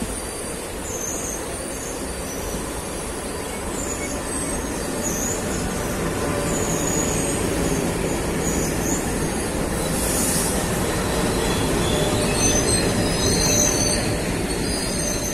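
Diesel-hauled passenger train rolling past on the rails, wheels running steadily with thin high squeals. The running noise grows louder about halfway through as the two diesel locomotives come past.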